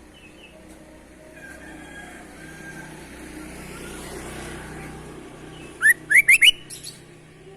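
Sooty-headed bulbul calling: a loud, quick run of four upward-sweeping whistled notes about six seconds in, after a few faint whistles earlier.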